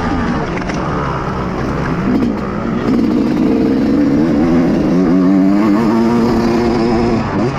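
Dirt bike engine under throttle. The revs dip, climb about two seconds in, hold high and wavering, then drop sharply near the end.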